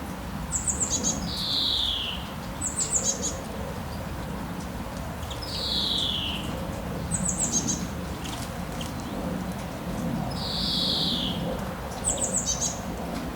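A songbird repeating a short phrase every few seconds: a quick run of very high notes and a separate clear whistled note that slides downward. Steady rain hisses beneath it.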